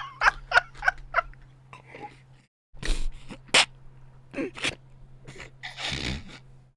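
A man gasping and coughing in a quick run of short, sharp breaths, then a few more and one longer breathy blast near the end, reacting to something he has just tasted.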